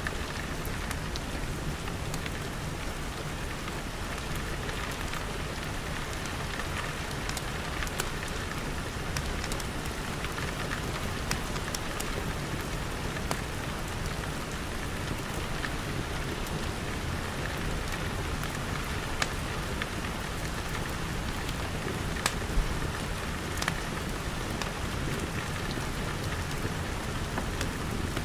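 Steady rain falling, with scattered sharp crackles from a wood fire every few seconds.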